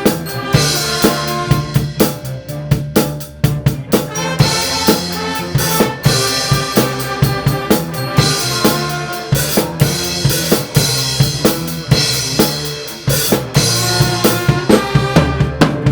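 High school band playing a rock arrangement, with a drum kit's bass drum and snare driving a steady beat under the band's sustained pitched parts.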